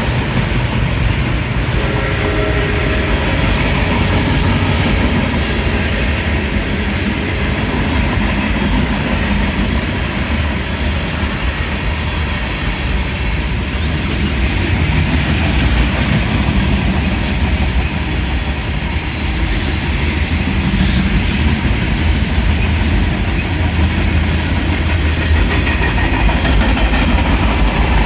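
Union Pacific manifest freight train rolling past close by: a steady rumble and clatter of wheels on the rails. The end of a locomotive horn note fades about three seconds in.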